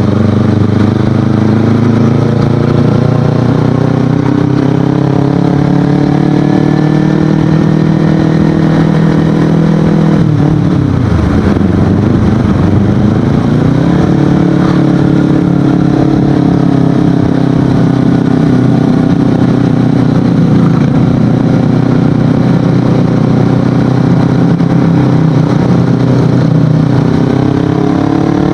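Kawasaki Ninja 250FI parallel-twin running through an Akrapovic aftermarket exhaust while riding. The engine note falls slowly, dips sharply and climbs back about eleven seconds in, holds steady for a long stretch, then rises again near the end as the bike accelerates.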